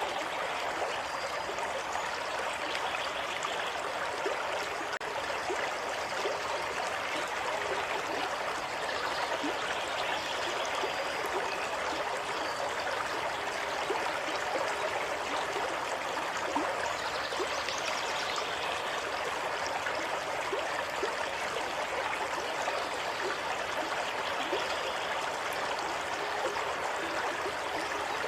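Running water of a stream, a steady rushing with fine trickling and gurgling, even and unbroken throughout.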